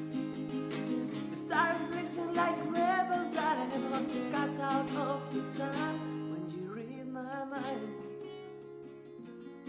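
Acoustic guitar strumming chords, with a voice singing over it from about a second and a half in until shortly before the end.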